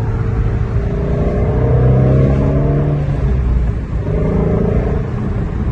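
A vehicle engine running and revving up twice: once about a second and a half in, and again about four seconds in.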